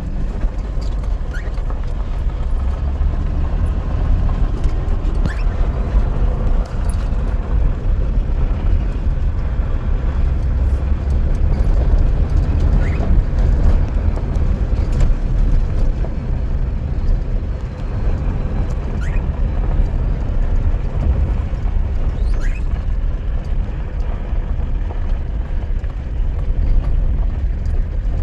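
Steady low rumble of a car on the move, heard from inside. A few brief, high rising chirps, presumably from a cockatiel, come at scattered moments.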